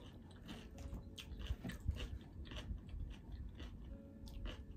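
Close-miked chewing and crunching of a mouthful of salad: irregular wet crunches and mouth sounds.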